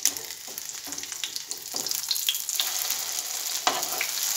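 Egg-coated chicken patty sizzling in shallow oil in a nonstick pan, with scrapes and taps of a silicone spatula as it is turned over. The sizzle gets louder about halfway through as the patty goes down on its other side.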